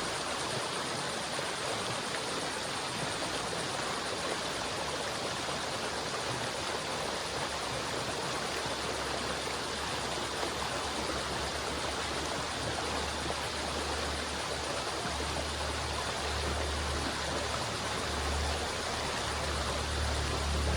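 River water flowing, a steady rushing. A low rumble comes in under it about halfway through and grows stronger toward the end.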